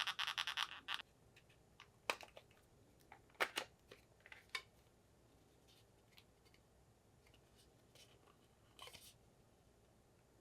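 A fast, evenly pulsing electronic sound cuts off suddenly about a second in. After it come scattered faint clicks and taps, with a short cluster near the end.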